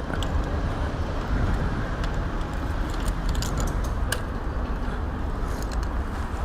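Steady low rumble of a vehicle engine running, with a few faint light clicks over it.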